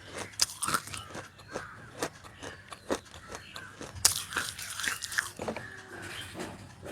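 Close-miked biting and crunching of roasted nakumatt pieces: a series of sharp crunches, the loudest about four seconds in, followed by a stretch of dense crackling chewing.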